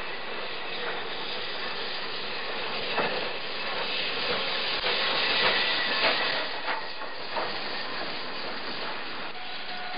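Train rolling on rails: a steady rushing rumble with irregular clanks and knocks of the wheels on the track, a little louder through the middle.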